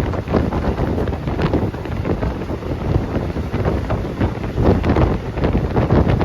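Wind buffeting an iPhone microphone: a loud, deep, uneven rush that surges and dips.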